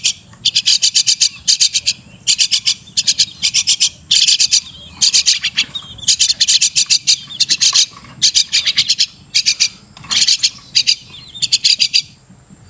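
Crested myna calling: bursts of rapid, scratchy chattering notes, each burst about half a second to a second long, repeated over and over with short gaps.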